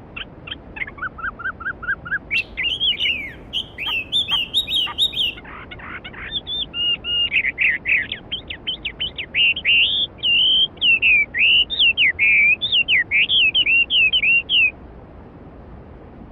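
Songbird song, a long run of quick chirps, trills and whistled notes, over the steady rush of a flowing mountain stream. The singing stops near the end, leaving only the water.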